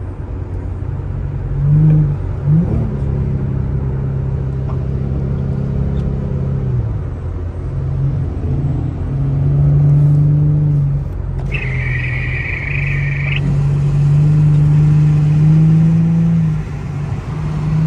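Infiniti G35's VQ35HR 3.5-litre V6 heard from inside the cabin, repeatedly revving up under throttle and easing off. A high, steady tone lasts about two seconds in the middle.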